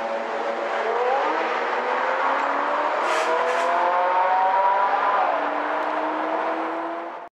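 Sports car engine accelerating, its pitch climbing steadily for several seconds, with two short hissy bursts about three seconds in. The sound cuts off abruptly near the end.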